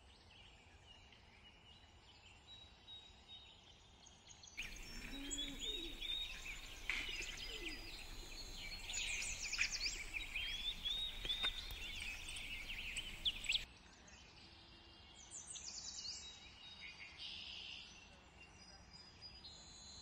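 Small birds chirping and singing over a faint outdoor background hiss. The calls are short and quick, some rising and falling. The birdsong gets abruptly louder and busier about five seconds in, then drops back to sparser chirping near fourteen seconds.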